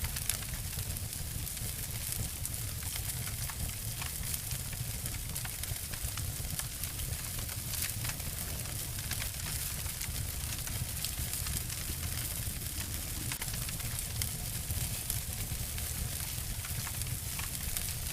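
Two wood fires burning together: a steady low rumble under a hiss, with frequent small sharp crackles and snaps.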